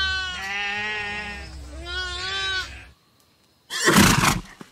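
Lamb bleating: three wavering bleats in quick succession, the first running on from just before. After a short silence comes a brief, loud, breathy blow near the end.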